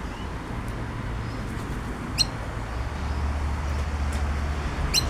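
A steady low rumble with two short, sharp high clicks about three seconds apart, and a few faint high chirps.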